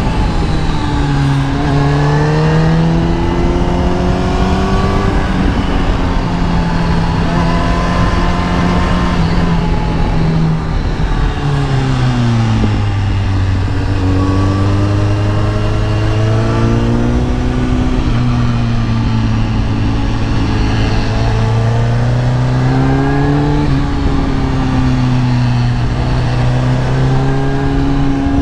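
Kawasaki ZX-10R inline-four sport-bike engine under way, its pitch climbing with the throttle and dropping back at gear changes, with a long fall as the bike slows about halfway through before it pulls again.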